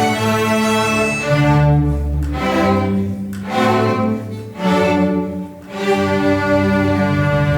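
Student string orchestra playing, with cellos and basses holding low notes under violins. The chords are sustained and change every second or so.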